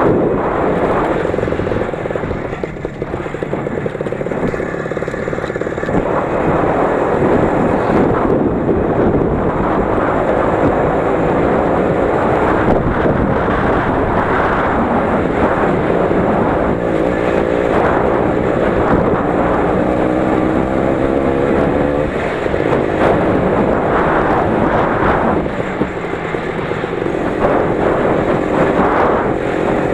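Lider 3.221 motorcycle's 20 hp engine running under load as it is ridden over rough ground. The revs rise and fall, climbing for several seconds about halfway through, then dropping back.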